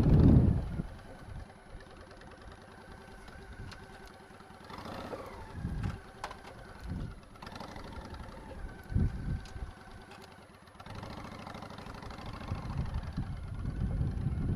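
Motorcycle engine running at low speed, with short bursts of throttle that swell and fade several times.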